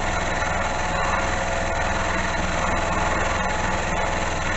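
Small benchtop milling machine running steadily while its cutter takes a cut, the table driven by a homemade power feed built from a windscreen-wiper motor.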